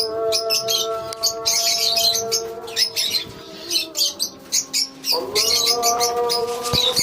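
Lovebirds chirping and squawking in a colony, many short high calls overlapping. A steady pitched tone sounds underneath and changes pitch about five seconds in.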